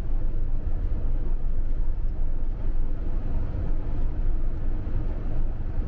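Steady engine and road rumble of a campervan driving at motorway speed, heard from inside the cab.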